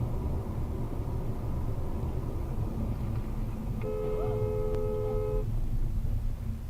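Steady low road and engine rumble from a moving car, with a vehicle horn sounding one long blast of about a second and a half, two notes together, near the middle.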